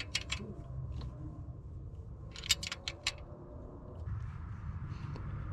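A few light, irregular clicks and clinks of hand tools being handled at the engine during a valve adjustment, with a cluster of them about two and a half seconds in, over a low steady hum.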